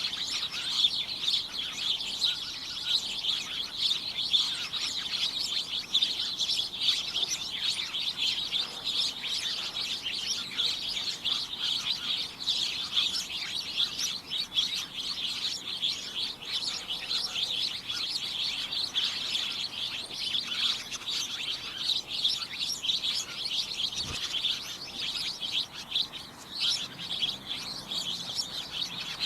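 A chorus of many small birds chirping and tweeting together, a dense, continuous overlapping chatter of short high chirps.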